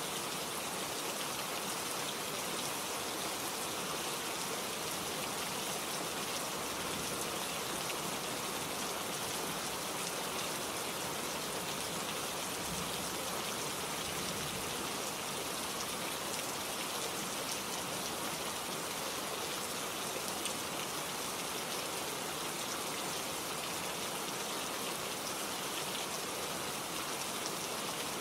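Steady rain falling, with raindrops pattering on leaves and other surfaces.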